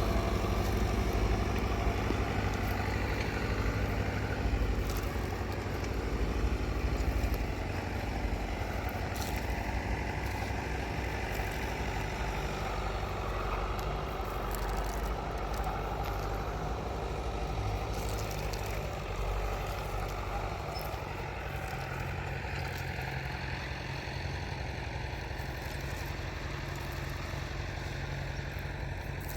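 An engine running steadily, a low even hum with no changes in pitch.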